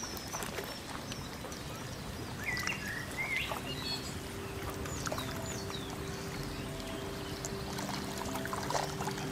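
Lakeside nature ambience: birds chirping over a steady watery hiss with a few light clicks. About three and a half seconds in, soft held musical tones in a chord come in and continue.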